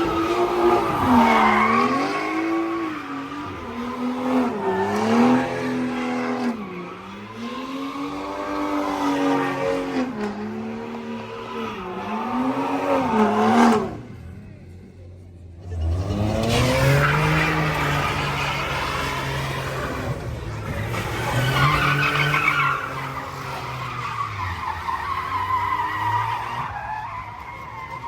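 A car spinning donuts with its tyres squealing, the engine revving up and down every second or two. About halfway through the sound drops out briefly, then a deeper-sounding engine holds high revs with more tyre squeal.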